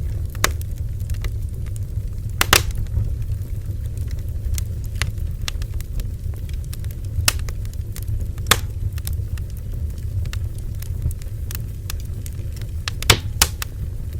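Bonfire burning with a steady low roar of flame and irregular sharp crackles and pops of burning wood, a loud pop about two and a half seconds in and two more near the end.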